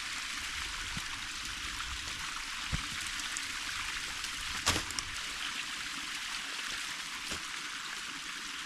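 Wood campfire burning with a steady hiss and a few sharp pops and crackles, the loudest pop about halfway through.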